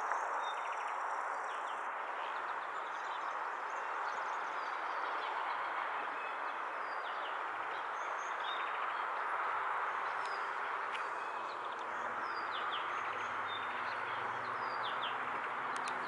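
Small birds chirping repeatedly in short, high, falling notes over a steady background hiss of outdoor ambience.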